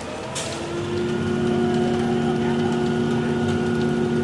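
An engine speeds up and then runs steadily at a high, even speed, with a sharp click about half a second in.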